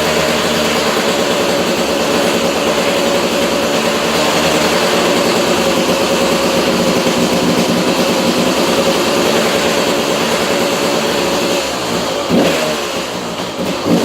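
2002 KTM 200 EXC's single-cylinder two-stroke engine running steadily on its first start after a top-end rebuild. About twelve seconds in the engine speed drops back, and it is blipped up twice in short revs.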